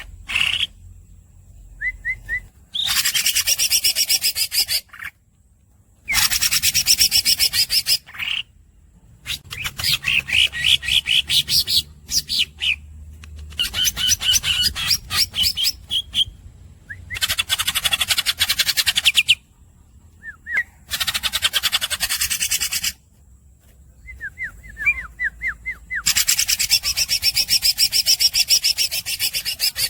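Green leafbird (cucak ijo) singing long rolls: about seven bouts of rapid, high repeated notes, each lasting two to three seconds, separated by short pauses with a few single squeaky chirps.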